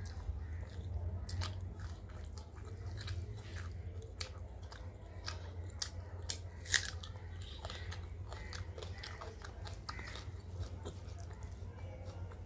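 Close-miked chewing and mouth sounds of a person eating rice and fried fish by hand: wet clicks and smacks, with one sharper crunch a little past halfway. A steady low hum runs underneath.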